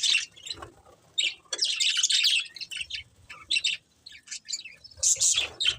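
Pet budgerigars chirping and chattering in quick high bursts, with short pauses between the bursts.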